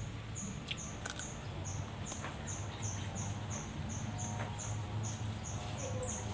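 A bird calling over and over with a short, high, slightly falling chirp, about two and a half a second, over a low steady background rumble, with a few faint clicks of food being handled by hand.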